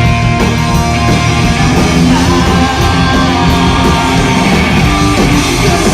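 Live rock band playing loud, with distorted electric guitars, bass and drums.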